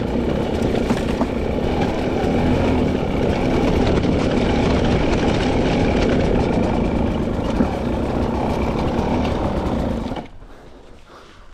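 300cc two-stroke dirt bike engine running at low revs, then shut off about ten seconds in.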